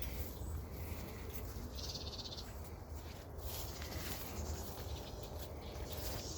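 Footsteps and rustling of leaves and stems while walking through dense, overgrown brush, over a steady low rumble on the microphone.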